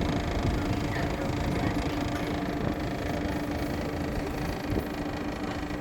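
Tour boat's engine running steadily, an even hum over a wash of noise.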